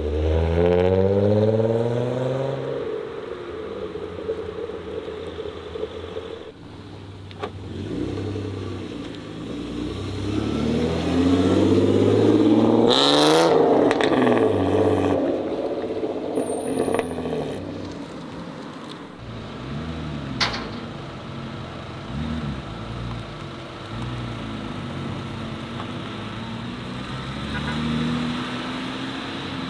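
Modified cars driving off one after another, their engines revving and accelerating past. An engine climbs in pitch in the first few seconds, and the loudest car goes by about halfway through, its note rising then falling as it passes.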